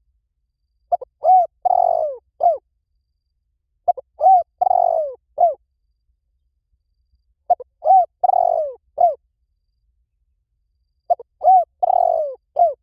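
Spotted dove calling: four phrases about three and a half seconds apart. Each phrase is a few short cooing notes around one longer, burred middle coo.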